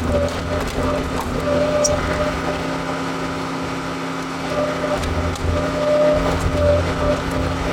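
John Deere 410 backhoe's diesel engine running under work, its note rising and falling, with a higher whine that comes and goes several times.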